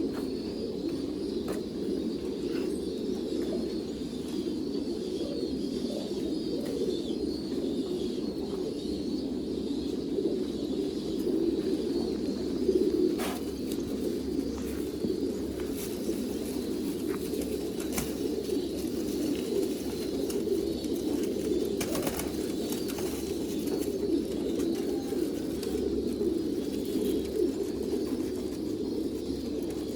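Many domestic pigeons cooing at once, their coos overlapping into a steady low hum, with a few sharp clicks here and there.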